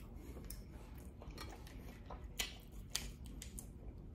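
Close-up eating sounds: chewing on a bite of baked lobster tail, with soft mouth clicks and smacks and a few short crackles, the sharpest about two and a half seconds in.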